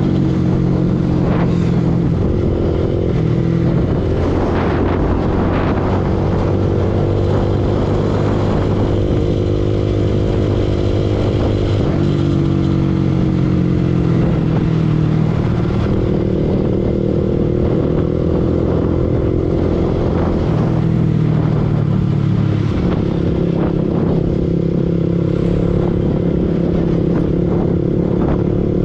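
Yamaha R15 V2 single-cylinder four-stroke motorcycle engine running under way, its note rising and falling with the throttle and gear changes, with a drop about twelve seconds in and another around twenty seconds.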